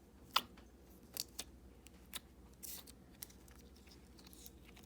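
Clear jelly cube slime being worked by hand, giving faint scattered clicks and crackles, the sharpest about a third of a second in.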